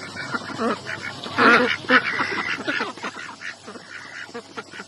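A flock of ducks quacking, many short overlapping calls, loudest in a burst about a second and a half in and growing quieter toward the end.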